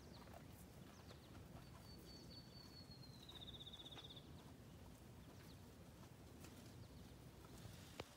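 Near silence with a faint, thin, high bird whistle about two seconds in, sliding slightly down and ending in a short trill, and a single click near the end.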